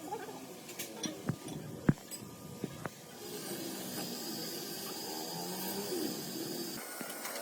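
Several sharp knocks and clicks of hand work on metal parts, then a steady hiss with a high whine for about three and a half seconds that stops abruptly.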